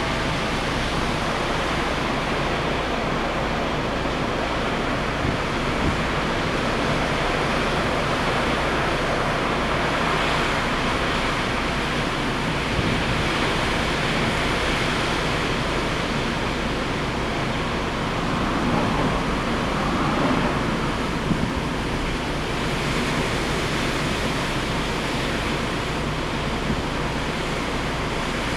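Steady rush of strong wind and rough sea surf driven by a typhoon, with wind buffeting the microphone.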